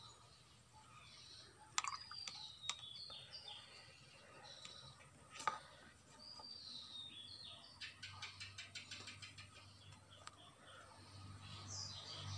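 Faint background birds chirping in short, repeated calls, with a few sharp clicks and a quick run of ticks about eight seconds in.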